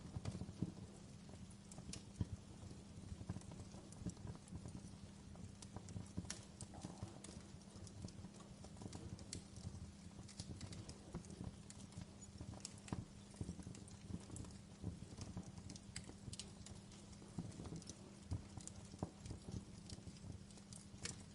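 Wood fire crackling in a fireplace: irregular small pops and snaps, scattered densely throughout, over a low steady rumble.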